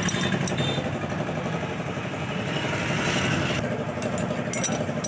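A tractor's diesel engine idling steadily.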